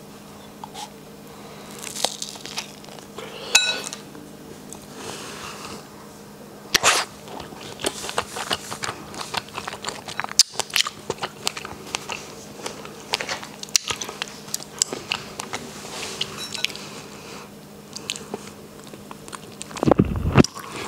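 Chewing of a milk-chocolate-covered strawberry, with crunchy snaps of the chocolate shell and many small wet mouth clicks. A brief louder mouth sound comes near the end.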